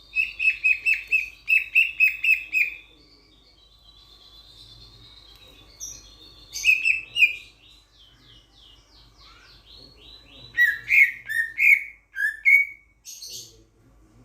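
Raja perling, a Sulawesi starling, singing: loud runs of quick repeated notes, a thin high whistle, then a string of rapid slurred notes and louder calls.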